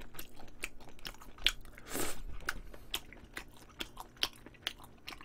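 A person chewing a mouthful of braised meat close to the microphone: many small irregular wet clicks and crunches of biting and mastication, with a brief louder noise about two seconds in.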